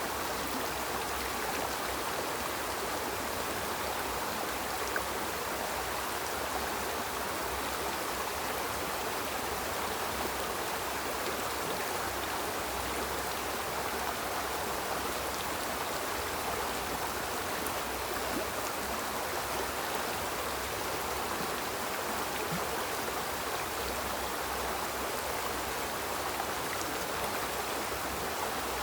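A small river's water flowing and splashing over rocks, a steady rushing babble that barely changes.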